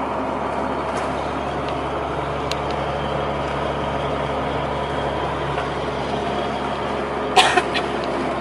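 Hino truck's engine and road noise heard inside the cab while cruising, a steady hum. A short sharp burst comes in near the end.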